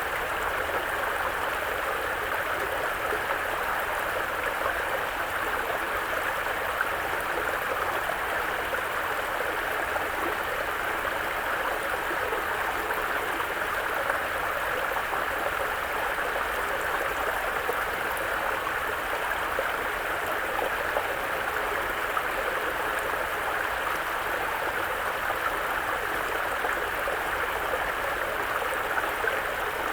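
A small mountain brook running over its bed with an even, unbroken water sound.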